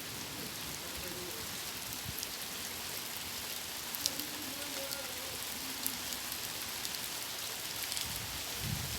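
Steady rain falling, with a few sharper drop hits standing out now and then.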